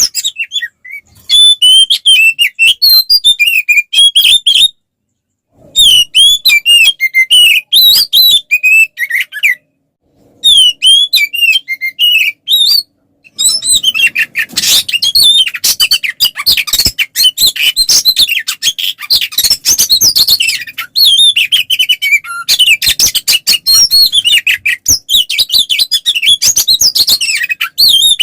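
Oriental magpie-robin (kacer) singing loud, fast, varied song of high chirps and trills: a male's full aggressive fighting song. Its phrases break off briefly a few times in the first half, then run on without pause.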